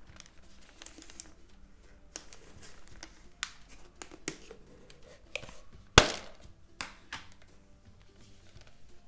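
Crinkly Maltesers packet being handled and torn open: scattered crackles, with one sharp, loud snap about six seconds in.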